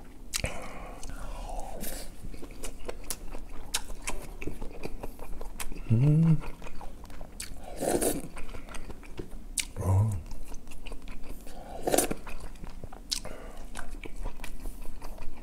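Close-up mukbang eating sounds: chewing and biting on kimchi-braised pork and rice, with frequent wet mouth clicks and smacks. Twice, about six and ten seconds in, the eater gives a short hummed "mm".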